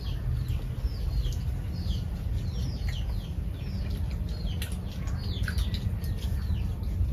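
Small birds chirping over and over, short falling chirps about two a second, over a steady low hum.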